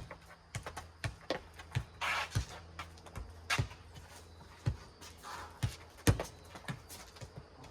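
A four square ball bouncing on the ground and being slapped back and forth by hands during a rally: a run of sharp, irregularly spaced smacks, roughly two a second.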